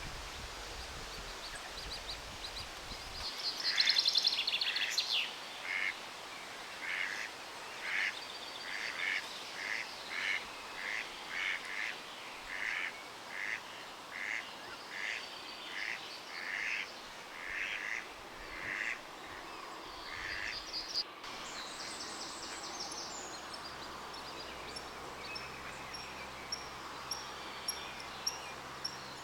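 A duck quacking in a long, evenly paced series, about one and a half quacks a second for some fifteen seconds, with small songbirds chirping and piping around it.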